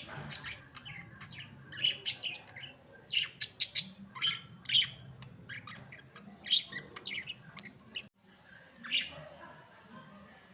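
Budgerigars chirping, a quick run of short sharp chirps and warbles that cuts off suddenly about eight seconds in, followed by a single call.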